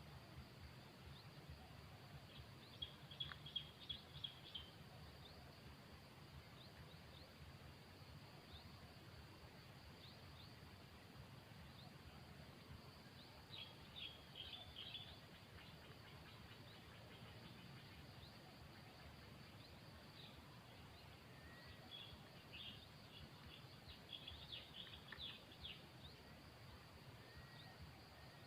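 Faint outdoor ambience with a steady low hum, broken three times by short runs of high-pitched small-bird chirping: a few seconds in, about halfway, and a longer run near the end.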